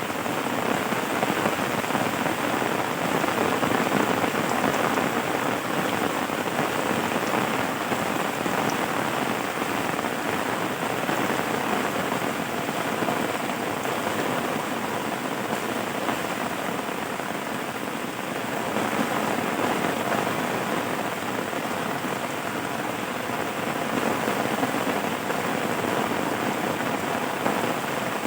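Rain falling steadily, a dense even hiss of many drops, easing slightly about two-thirds of the way through.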